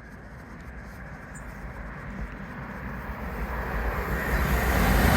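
A train approaching through a station, its rumble and rushing noise rising steadily in loudness as it nears.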